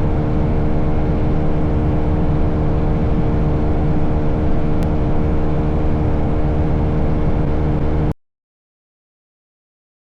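Motorcycle engine running steadily at an even speed, then cutting off abruptly to complete silence about eight seconds in.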